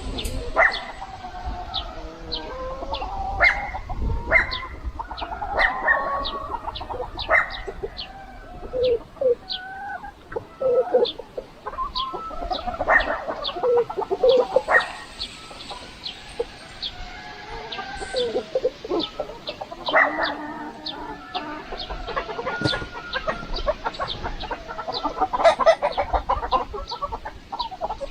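A flock of free-range chickens clucking and calling throughout, many overlapping calls, with a faint high chirp repeating about twice a second behind them.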